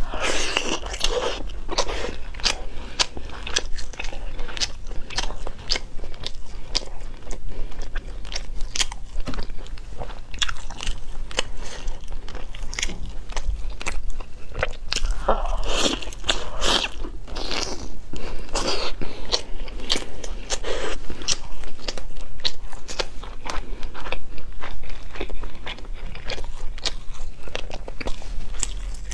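Close-miked eating: biting and chewing boiled pork off the bone with sauerkraut (Northeastern Chinese pig-slaughter stew), dense wet mouth clicks and smacks with crunching throughout.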